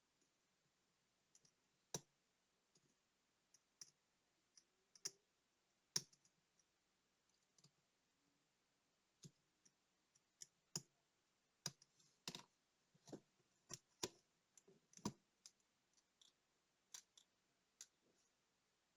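Small, sharp clicks and light taps at irregular intervals as the small parts of a Soviet Montana digital watch are handled. They are sparse at first and come more often in the second half.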